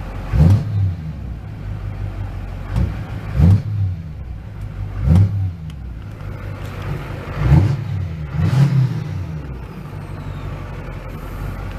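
Duramax 6.6-litre V8 turbodiesel in a 2005 Chevy Silverado 2500 HD idling, revved in five short blips that rise and fall back to idle.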